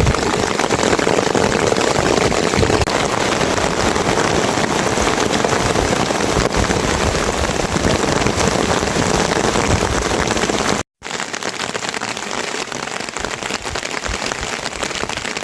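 Heavy rain pouring down in a steady, dense hiss. It cuts out for an instant about eleven seconds in, then carries on with less low rumble.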